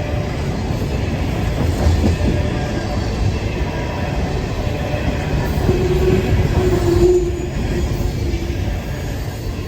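Norfolk Southern freight train's cars rolling past with a steady rumble of wheels on rail. A wavering wheel squeal rises about six seconds in and fades out after a couple of seconds.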